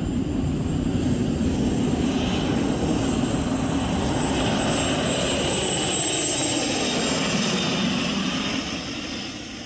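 Three Isotov TV2 helicopter turboshaft engines of a modified pulling tractor running at full power during a pull: a steady heavy roar with a high turbine whine on top. The sound dies away near the end.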